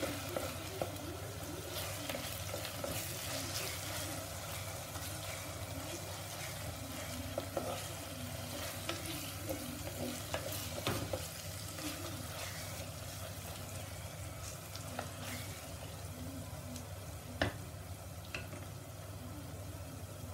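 Onions and ginger-garlic paste frying in oil in a pot, sizzling steadily while being stirred with a spoon, which scrapes and clicks against the pot now and then. A single sharp knock of the spoon on the pot comes about 17 seconds in.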